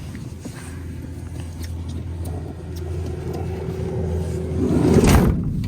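Mercedes Sprinter van driving, a steady low drone of engine and road noise that swells into a loud rush about five seconds in.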